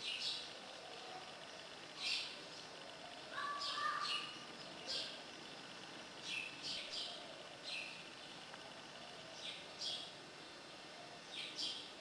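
Small birds chirping: short, high chirps repeating every second or so over a faint steady background, with one brief lower call about three and a half seconds in.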